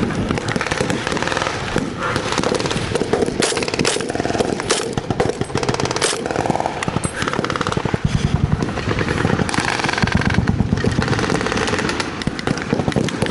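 Blank-firing machine guns and rifles in rapid, sustained bursts, with many shots overlapping.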